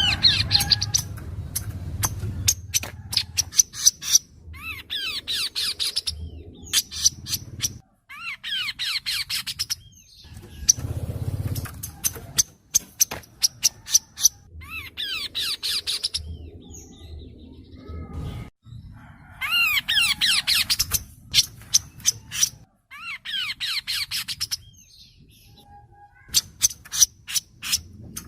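Kaso-kaso songbird singing, played as a training recording: a chattering phrase of quick sweeping notes about every three to four seconds, with runs of sharp ticking calls in between.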